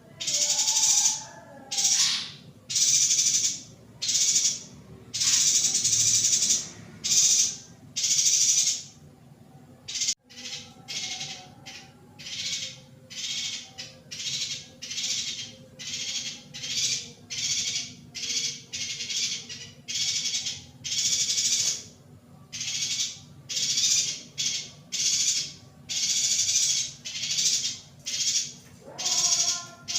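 Female yuhina giving a long run of short, hissing rasp calls, one after another. There is a brief pause about ten seconds in, after which the calls come shorter and quicker, about two a second.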